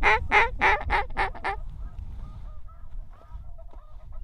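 Mallard-style quacking: a descending run of about six loud, raspy quacks in the first second and a half, the cadence of a hen mallard call, followed by faint distant goose calls.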